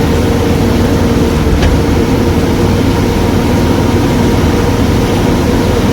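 Heavy lorry running along a highway at speed, heard from inside the cab: a steady engine drone and road rumble with a constant whine. A single light click about a second and a half in.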